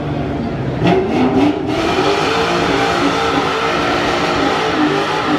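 A car engine revving hard and then held at high revs, as in a burnout, with a steady hiss over it and a few sharp cracks about a second in.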